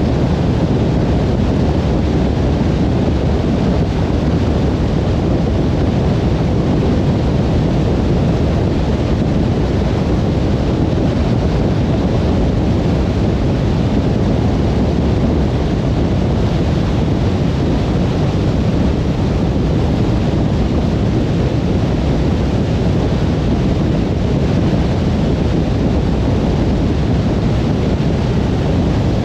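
Steady road noise of a car cruising on a motorway: an even low rumble of tyres and wind with no changes in speed or pitch.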